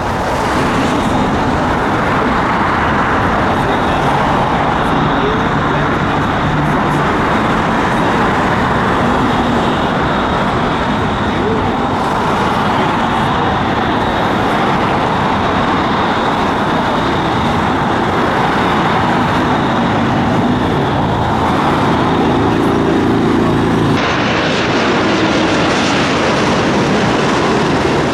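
Jet airliner engines running loud and steady, a dense rushing noise, with an abrupt change in its tone near the end.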